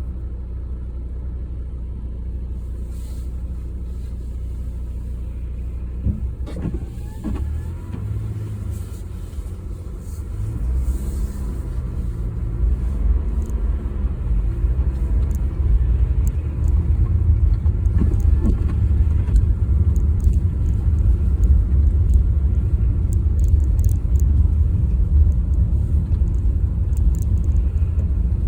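Car engine and road rumble from a car being driven, with a few knocks about six seconds in, then picking up and getting louder from about ten seconds in as the car gathers speed.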